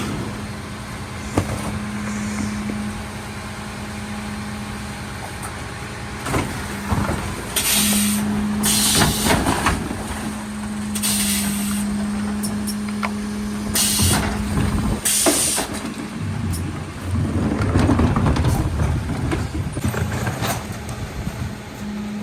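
Mercedes Econic refuse truck working at the kerb: its engine runs with a steady hum, broken four times by short sharp hisses of released air, and a heavier low rumble builds near the end.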